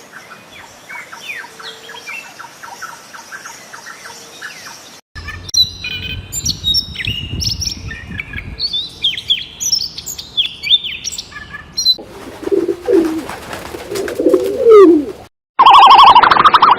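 Birds chirping and calling in several short clips cut one after another, with runs of quick repeated chirps and whistles, then lower gliding calls. Near the end comes a much louder warbling call.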